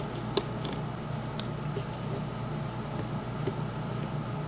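Steady low background hum with a few faint, light clicks of small objects being handled on a workbench.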